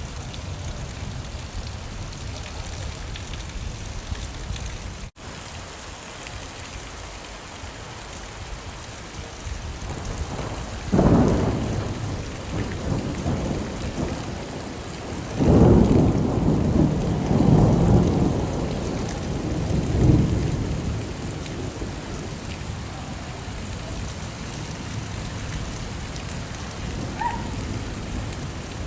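Steady heavy rain falling, with a brief dropout about five seconds in. Thunder rumbles once about eleven seconds in and again in a longer rolling peal a few seconds later.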